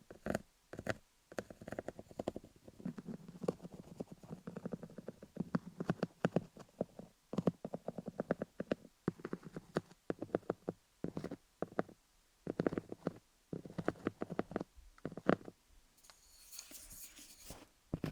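Colored pencils tapping quickly on a rhinestone-studded dummy head, close up, in rapid clusters of light clicks over a low rumble. Near the end there is a brief scratchy hiss.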